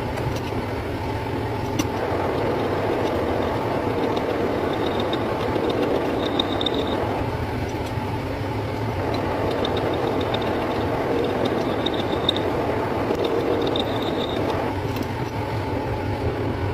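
Metal lathe running steadily, with a faint high whine that comes and goes several times.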